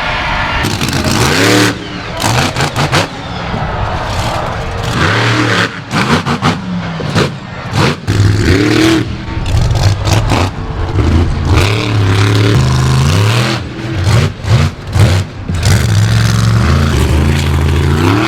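Monster truck engine revving hard, its pitch climbing and dropping again and again, breaking off and starting up abruptly several times.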